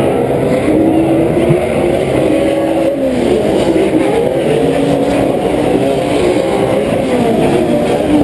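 Several PRO 4 off-road race trucks' V8 engines revving up and down at once, their pitches rising and falling and overlapping as the pack races around the short course.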